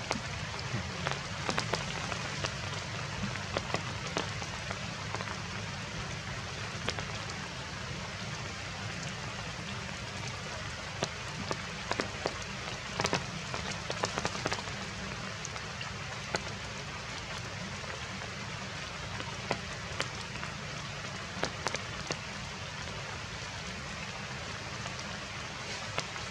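Heavy rain falling steadily, with frequent sharp drops tapping close by.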